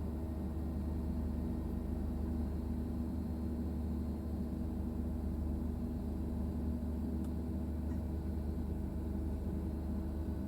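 Train running with a steady low mechanical hum, holding several steady low tones.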